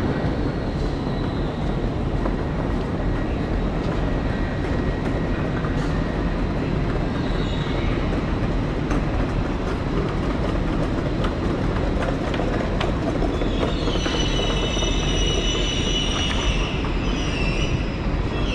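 Passenger train rolling through a station, a steady rumble of wheels on rail; from about fourteen seconds in, a high wheel squeal sets in over it.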